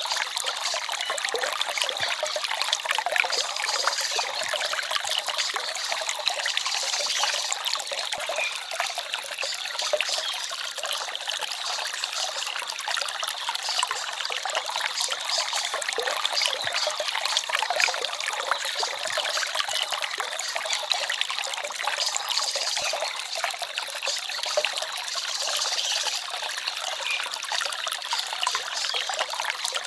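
Small stream of running water trickling and babbling steadily.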